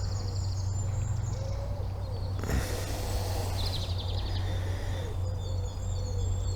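Small birds chirping and singing in short high phrases over a steady low rumble, with one knock about two and a half seconds in.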